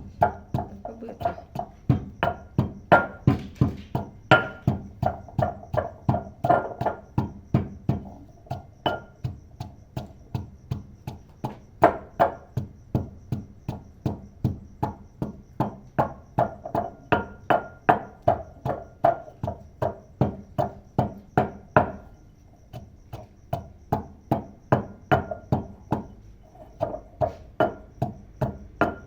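Pestle pounding in a mortar at a steady pace of about two strokes a second, each stroke a sharp knock with a short ring, crushing lemongrass, prickly ash seeds, shallots, garlic and dried chillies into a paste. There is a brief pause about two-thirds of the way through.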